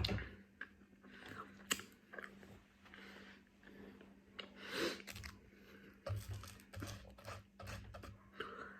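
Someone eating close to the microphone: irregular bites, crunches and wet chewing smacks, with a run of low thumps in the second half.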